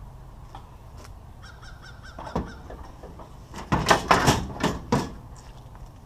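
A crow cawing, a run of several harsh caws about four to five seconds in.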